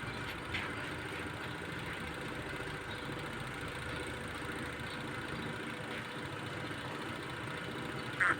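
A steady low mechanical hum, like an engine idling, with one short higher-pitched sound about eight seconds in.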